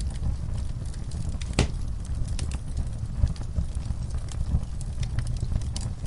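Wood fire crackling in a fireplace: a low steady rumble of the flames with frequent sharp pops and snaps, one louder pop about one and a half seconds in.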